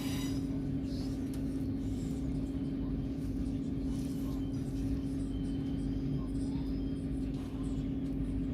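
Steady drone of a train heard from inside the carriage: a constant hum over a low rumble, unchanging throughout.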